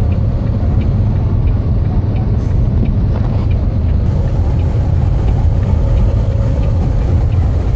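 Steady cab noise inside a loaded semi truck at highway speed: a low, even drone of engine and road noise mixed with wind noise from strong crosswinds buffeting the truck.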